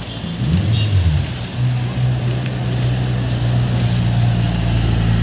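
Car engine running close by: a quick rise and fall in engine pitch about half a second in, then a steady low drone that grows slightly louder.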